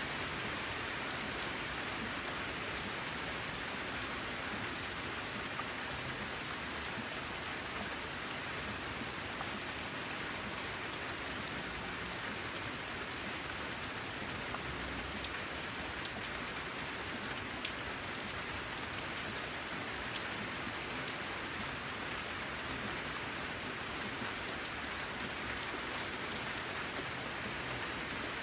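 Steady rain falling on a corrugated zinc roof: an even hiss with scattered sharper drop hits ticking through it.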